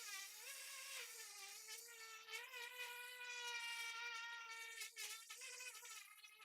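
Electric power tool motor running with a steady buzzing whine that wavers slightly in pitch, dipping briefly about five seconds in.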